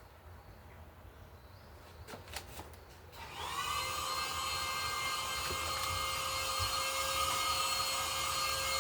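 Vacuum cleaner switched on about three seconds in, its motor whine rising briefly and then running steady. A few sharp clicks come just before it starts.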